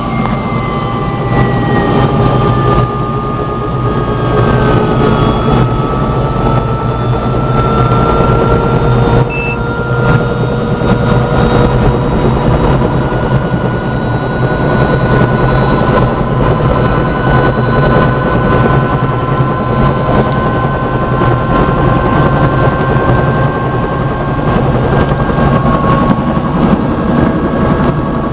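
Helicopter in flight: steady, loud rotor and turbine noise, with thin whining tones that drift slowly in pitch and one that falls during the first few seconds.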